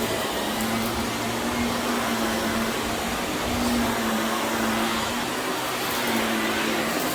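Vacuum cleaner running steadily over berber carpet: a continuous rushing airflow with a low motor hum that wavers a little in strength.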